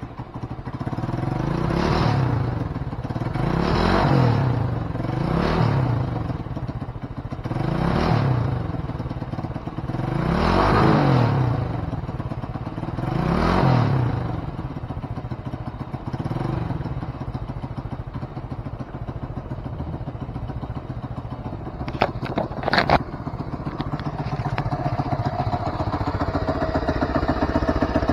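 Honda CT90 trail bike's small single-cylinder four-stroke engine being revved in six blips, each rising and falling over a second or two, then settling to a steady idle about halfway through. A few sharp metallic knocks come near the end of the idle.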